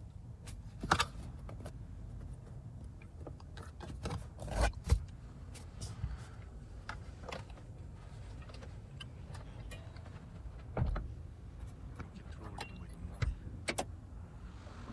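Scattered clicks and knocks from a car's interior fittings being handled, loudest at about one second, around four and a half to five seconds, near eleven seconds and twice near thirteen to fourteen seconds, over a steady low hum.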